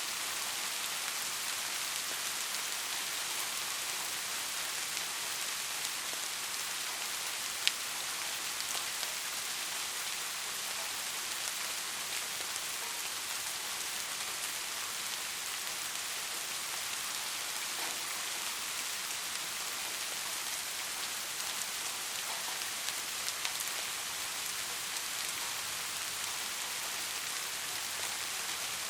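Steady rain falling, an even hiss with scattered individual drops ticking on a surface; one sharper drop click stands out about seven and a half seconds in.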